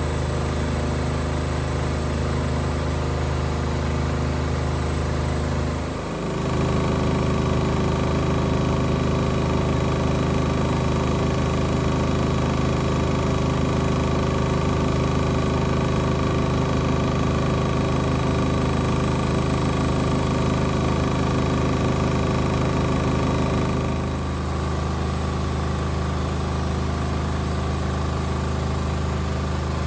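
Beko WMB 71643 PTE washing machine running steadily, its brushed motor giving a continuous mechanical hum. The hum dips briefly and shifts to a stronger, different pitch about six seconds in, then drops back about 24 seconds in, as the drum changes speed.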